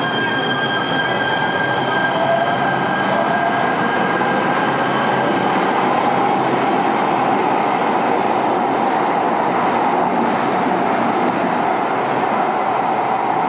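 Light rail train running on the rails with a steady, loud rumble. A few high squealing tones fade out over the first few seconds, and a tone climbs slowly in pitch between about two and six seconds in.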